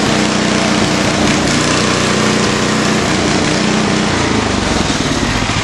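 1970 Montgomery Ward snowblower's small gasoline engine running steadily after a cold start, its note shifting about four seconds in.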